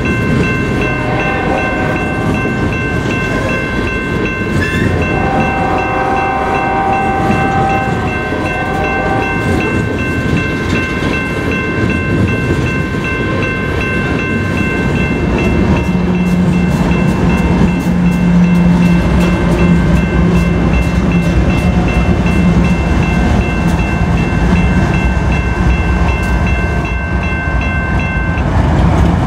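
Freight train hopper cars rolling past on curved track: a steady rumble of wheels on rail with some clacking. Several steady high squealing tones run over it and stop near the end, where the sound changes as the picture cuts to passing diesel locomotives.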